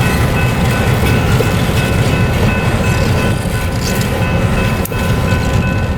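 EMD SW1200 switcher locomotive with its 12-cylinder 567 diesel and its freight cars moving slowly over the track: a loud steady rumble, with steady high ringing tones over it.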